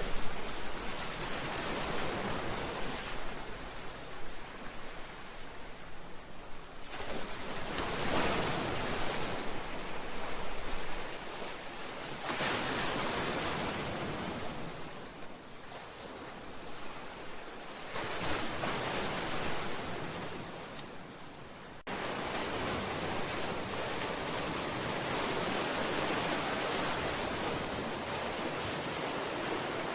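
Sea waves breaking against a seawall and wave breakers, a continuous rushing wash that surges and ebbs every few seconds. Sudden shifts in level about 12, 18 and 22 seconds in, after which it settles into a steady rush.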